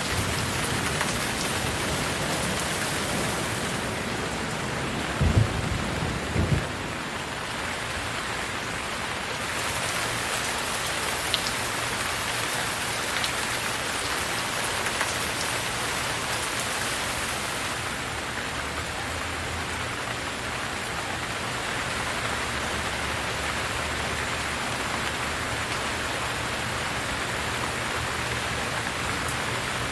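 Steady, even rain hiss throughout. A few brief low thuds about five to six and a half seconds in stand out above it.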